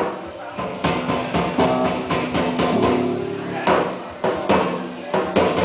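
Live band playing through a PA: sustained guitar chords over repeated drum hits.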